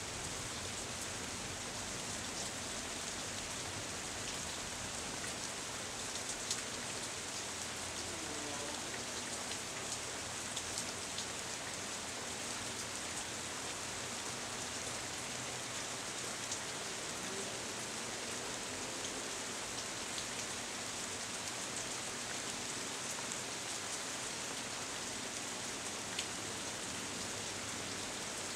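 Steady rain falling through tree foliage: an even hiss with scattered sharper drop ticks.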